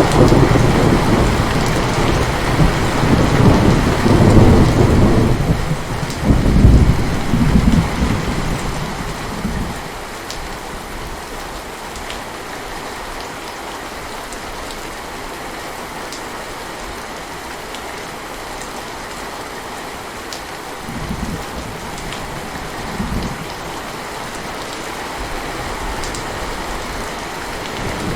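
Steady heavy rain falling, with a long, loud roll of thunder over the first third that fades out, then two short low rumbles later on and another one beginning at the very end.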